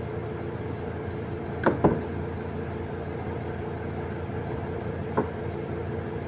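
A steady machine hum made of several held tones, broken by two quick knocks a little under two seconds in and a single knock about five seconds in.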